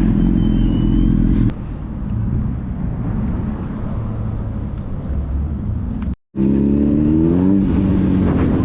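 Car engine running at low speed, its sound changing abruptly about a second and a half in. After a brief dropout about six seconds in, an engine comes back strong and rises in pitch as it revs up briefly.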